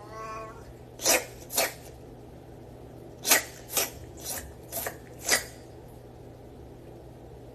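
A cat's meow trails off, then seven short, sharp bursts of breath come mostly in pairs about half a second apart, like sneezes or hisses.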